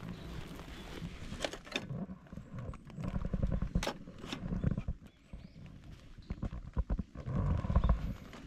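Irregular knocks, thuds and clatter of firewood and a fire pit being handled and set up, with a few sharp clicks.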